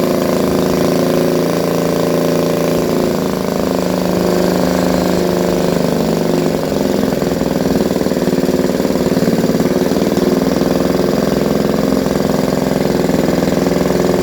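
Villiers engine running on its first start. Its speed wavers up and down for the first few seconds, then settles into steadier, faster running about seven seconds in.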